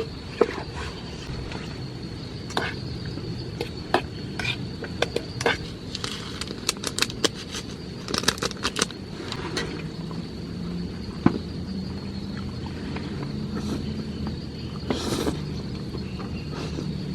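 Steady high-pitched insect drone, with scattered sharp taps and clicks coming irregularly and clustering near the middle, over a low steady hum.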